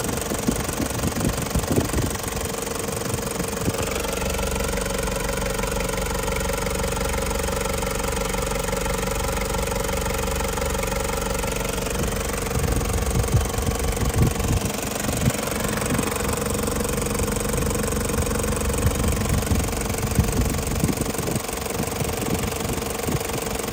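A 1998 Toyota HiAce KZH106's 3.0-litre 1KZ-TE four-cylinder turbo diesel engine idling steadily.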